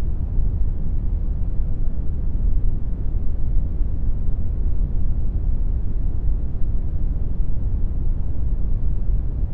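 Steady synthetic brown noise, a deep even rumble with most of its energy in the bass, unchanging throughout.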